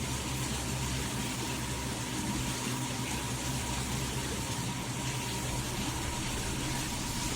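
Steady rushing noise with a faint steady hum and a thin high tone running through it.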